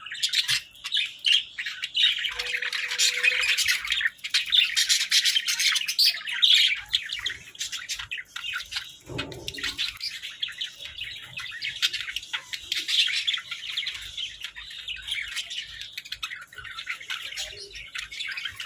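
A pair of Hagoromo budgerigars chattering and warbling without pause, a dense run of fast, high chirps.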